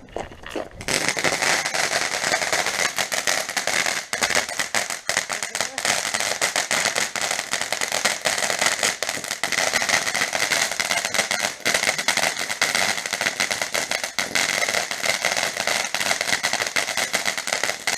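A ground firework fountain burning: a steady spraying hiss thick with fast crackling. It starts about a second in and stops near the end.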